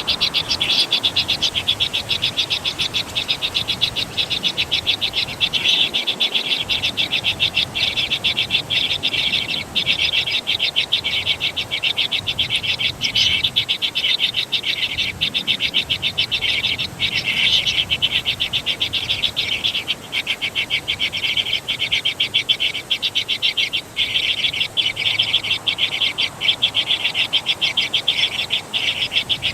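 A dense, steady animal chorus of rapid high chirping pulses, several a second, running on without a break.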